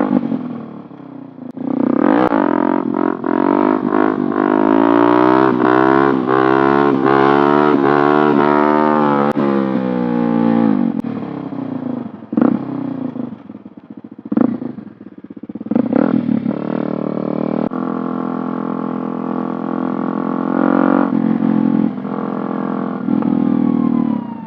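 Small 50cc motorcycle engine under way, revving with its pitch climbing for several seconds, then easing off about ten seconds in; later it runs at a steady pitch for several seconds.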